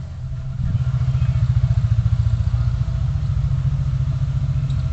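A car's engine and road rumble heard from inside the cabin, a low, fast, even pulsing that grows louder about a second in and then holds steady.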